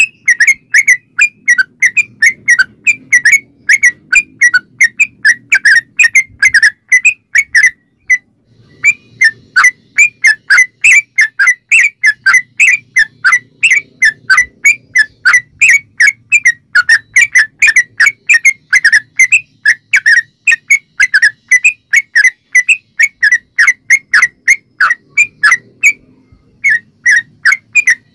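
Yellow-vented bulbul (trucukan) singing a long, rapid run of short, bubbling whistled notes, several a second, with two brief pauses. This is the continuous 'ropel' song used as a lure to set other bulbuls singing.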